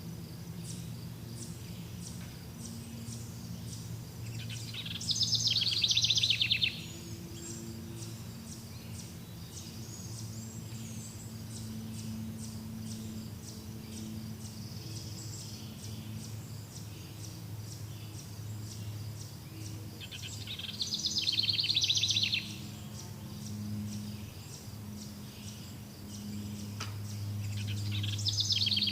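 A songbird singing a loud, rapid trill three times, each lasting about two seconds, swelling and then cutting off sharply. Between the songs there is faint, regular high ticking, other faint chirps and a low steady hum.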